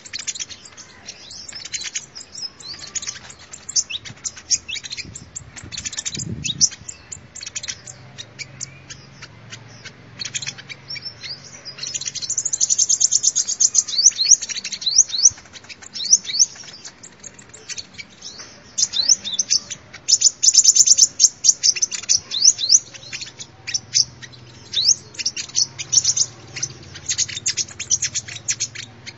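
Sunbird singing: rapid high-pitched chirps and twitters, with bursts of dense fast trills about twelve seconds in and again about twenty seconds in.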